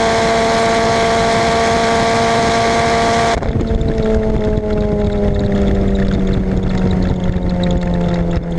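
Tuned Renault Mégane RS 2.0-litre turbocharged four-cylinder, heard from inside the cabin, running at steady high revs flat out at about 290 km/h. About three and a half seconds in the throttle is lifted: the sound suddenly loses its top end, and the engine note falls slowly as the car slows.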